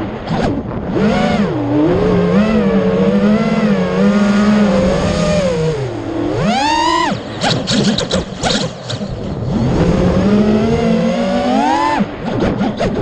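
FPV drone's motors whining, the pitch rising and falling with the throttle. About seven seconds in the pitch sweeps sharply up and breaks into a second or two of choppy, stuttering bursts, and the stutter comes again near the end.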